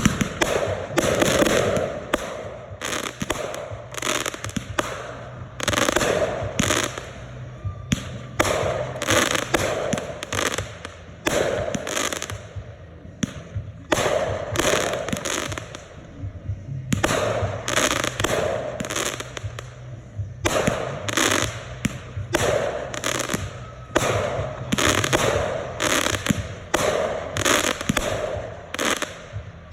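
Red Apple consumer fireworks going off in a continuous barrage: many sharp bangs and crackling bursts come in quick clusters, broken by a few short lulls of a second or so.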